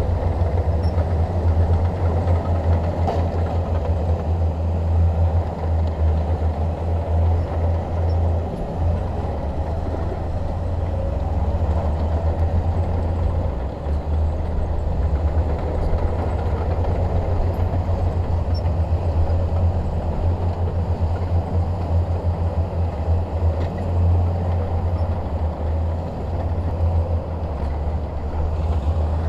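Shantui DH17 bulldozer's diesel engine running steadily under load, a deep rumble with a rough flutter.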